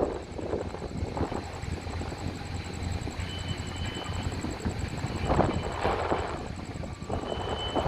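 Steady outdoor rumble of vehicles, with wind on the phone's microphone. It swells louder about five to six seconds in.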